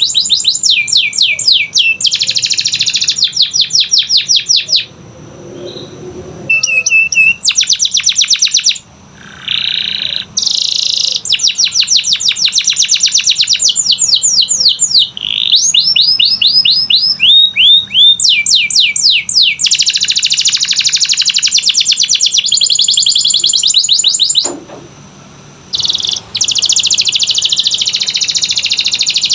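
Canary singing loud, fast rolling trills and runs of rapid, high chirps, broken by two short pauses.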